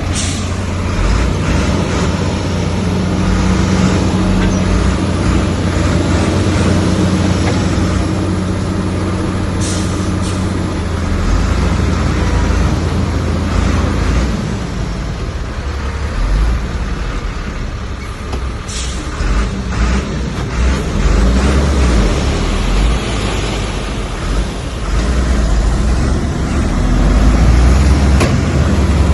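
Heavy diesel engine of a Komatsu bulldozer running continuously under working load, its note changing after about ten seconds, with a few short hisses.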